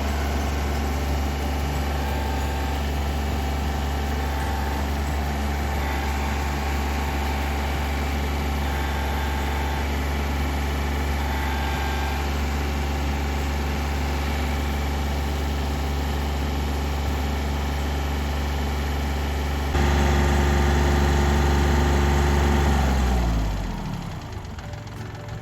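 Kubota tractor's diesel engine running at a steady idle. About twenty seconds in it gets louder without changing pitch, then the engine is shut off and winds down, its pitch sinking as it stops.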